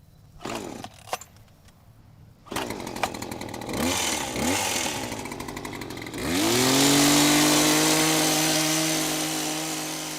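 Greenworks 82V brushless battery chainsaw: two short bursts of the motor, then the motor spins up with a rising whine to full speed and runs steadily, slowly fading near the end.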